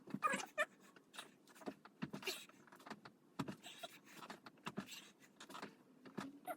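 Faint, irregular knocks and rustles of a person doing repeated deck squats on the floor: rolling back, swinging the legs over and springing forward to stand.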